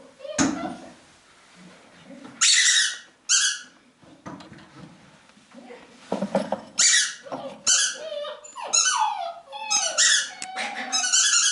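A pet animal making a series of short, shrill squeaking calls, with falling whine-like notes in the second half.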